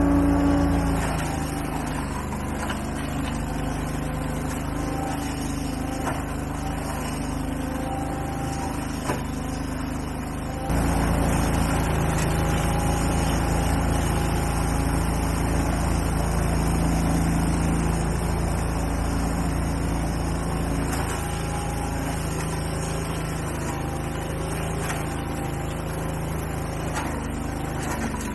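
An engine running steadily, stepping up suddenly to a louder, deeper note about eleven seconds in.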